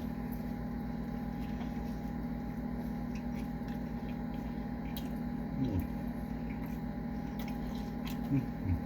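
Wet, squishy chewing of a burger, with scattered small mouth clicks over a steady low hum. Two short falling 'mm' murmurs come about halfway through and near the end.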